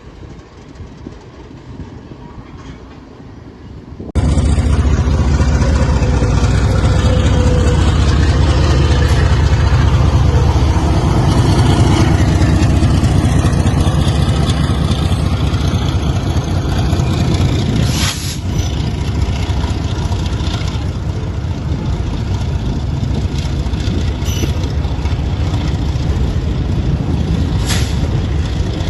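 Diesel freight locomotive running loud and close, a heavy, steady engine sound that comes in abruptly about four seconds in. Two short sharp clanks are heard later on.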